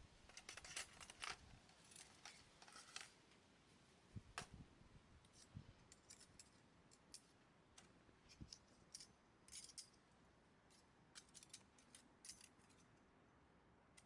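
Faint, irregular small clicks and ticks, some in quick clusters of several, with long gaps between them.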